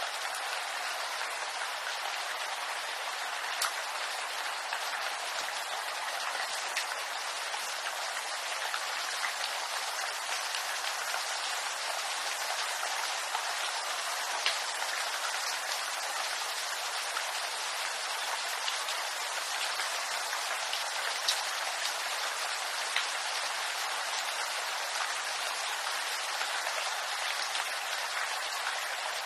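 Steady rain falling on bamboo leaves: an even hiss with scattered individual drop ticks.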